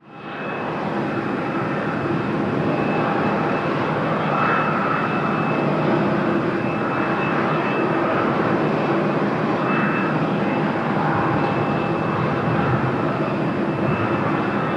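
Jet airliner's turbofan engines running steadily, a broad rushing noise with a few steady whining tones through it.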